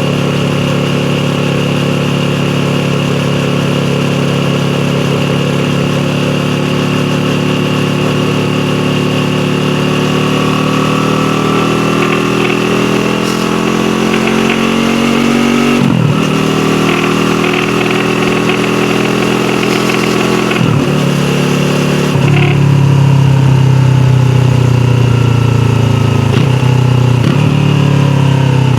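Yamaha YZF-R3's parallel-twin engine under way, its pitch climbing slowly, then broken by several quick gear changes where the pitch drops and climbs again. It gets louder on the throttle in the last third.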